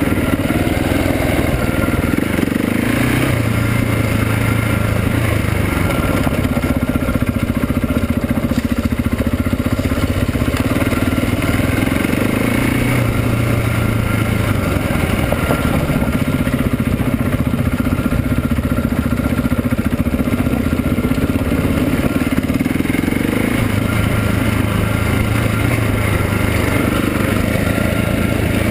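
KTM 690 SMC's single-cylinder engine running while riding, its pitch rising and falling several times with the throttle.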